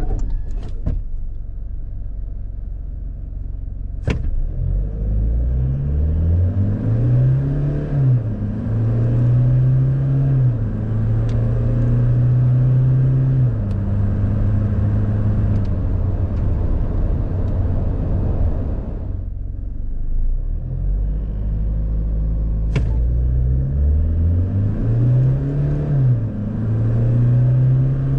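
2021 Toyota HiLux SR's 2.8-litre turbo-diesel four-cylinder accelerating hard from rest, its pitch rising and then dropping back as the six-speed automatic shifts up. The engine eases off about two-thirds of the way through, and a second full-throttle run starts soon after. A sharp click comes just before each run.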